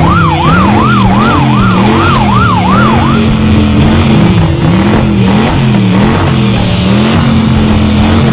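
Police siren sound effect: a fast rising-and-falling wail, about two and a half cycles a second, that lasts about three seconds and then stops. It plays over loud rock backing music.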